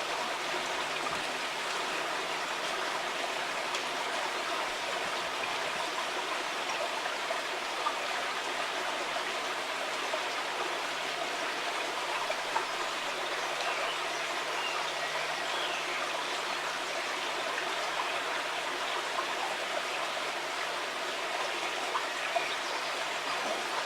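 Water of the River Porter, a small stream, flowing steadily over its bed in an even, continuous rush.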